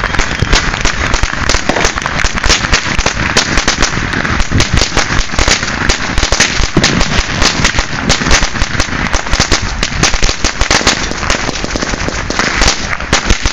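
Strings of firecrackers going off: a continuous rapid crackle of many sharp bangs a second, with no let-up.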